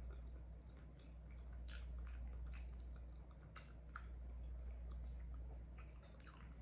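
Close-up mouth sounds of chewing shrimp-boil food, with scattered short wet clicks and squishes from fingers picking through the saucy food, over a steady low hum.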